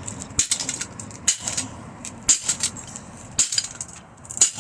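Sharp metallic clinks and clanks from a ceiling fan being wrecked, repeating about once a second.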